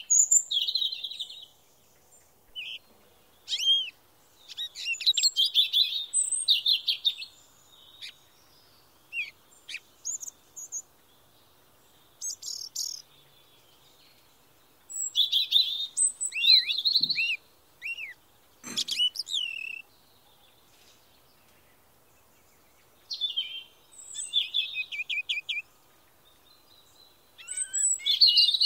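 Songbirds singing: phrases of quick high chirps, trills and short down-slurred notes, each lasting a second or two, with pauses of a few seconds between them.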